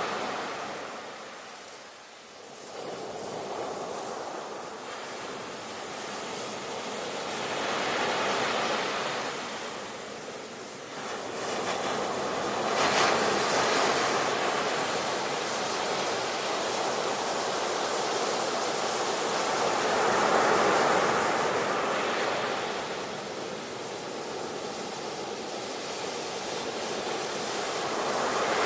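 Ocean surf: waves breaking and washing in, the rush rising and falling every several seconds.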